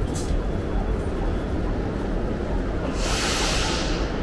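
Low, steady rumble of a passenger train standing at a station platform, with a hiss lasting about a second about three seconds in.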